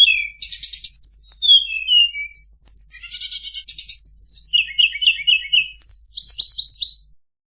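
Tledekan songbird singing a fast, varied song of high whistled notes, downward-slurred phrases and rapid trills. The song stops abruptly about seven seconds in.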